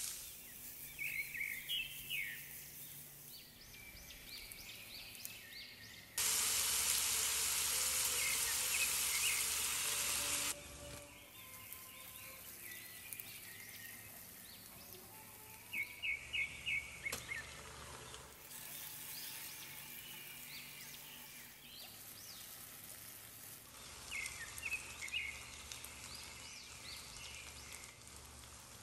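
Chopped onions sizzling in hot oil in a frying pan, loudest for about four seconds near the middle. Short runs of bird chirps come through several times in the background.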